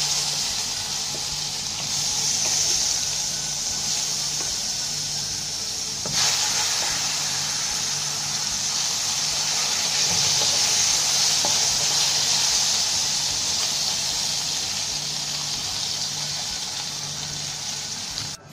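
Potato wedges frying in hot oil in a nonstick pan, a steady sizzle that flares as more wedges drop in at the start and grows louder again about six seconds in.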